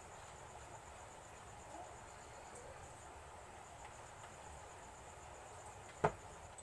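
Faint crickets chirping in the background, a high thin trill in even pulses, with a single sharp knock a little after six seconds in.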